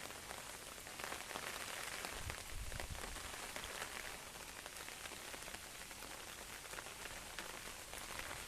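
Heavy monsoon rain falling steadily: a dense hiss of rain with many small ticks of individual drops hitting surfaces.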